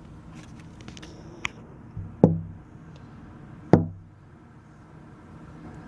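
Two heavy knocks about a second and a half apart, each with a short low ring after it, over a quiet room background.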